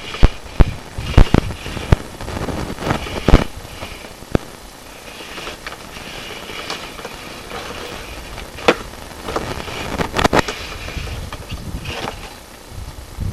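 Irregular sharp knocks and clicks over a scraping rustle, from a sewer inspection camera and its push cable being worked through a drain pipe.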